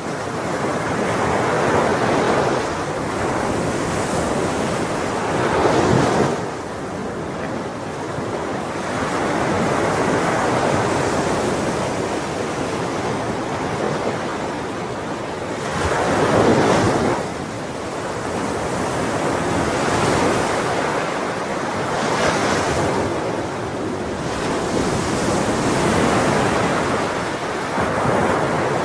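Ocean waves breaking and washing onto a shore, a steady rush that swells with the larger waves about 6, 16 and 22 seconds in, with some wind noise.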